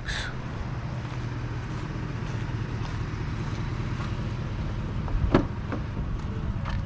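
Steady low mechanical hum, like an idling engine or a running motor, with a single sharp knock about five seconds in.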